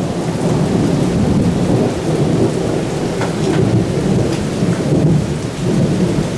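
Heavy thunderstorm: rain pouring down under a loud, steady low rumble of storm noise.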